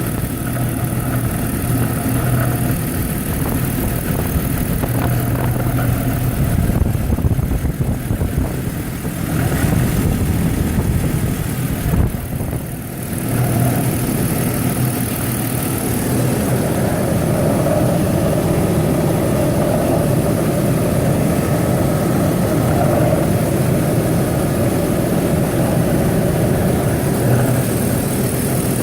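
2001 BMW 530i's straight-six engine running at idle, with a steady growling noise that the owner cannot pin on the belt tensioner or something else. The sound drops briefly about twelve seconds in.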